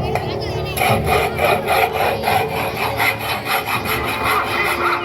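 A saw cutting through wood in quick, even back-and-forth strokes, about three a second, starting about a second in.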